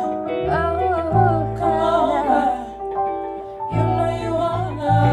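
A female R&B singer sings wordless melodic runs over an instrumental backing of held chords and deep bass notes that drop out and return.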